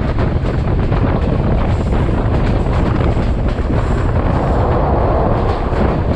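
Vietnam Railways passenger train running, a loud steady rush of rolling noise, with heavy wind buffeting the microphone.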